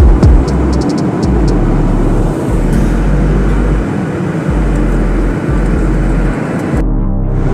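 Passenger jet landing: a steady, loud roar of engine and airflow noise, with a few heavy thumps right at the start. Near the end the sound turns briefly muffled.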